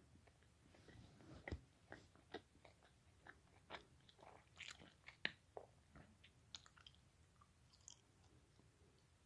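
Faint biting and chewing of a piece of Jack Link's teriyaki beef steak (dried beef snack): a run of small moist clicks and crackles starting about a second in, the loudest at the first bite, thinning out near the end.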